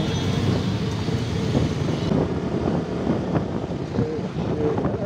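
Wind buffeting the microphone on a moving motorcycle, with the engine and road noise running steadily underneath.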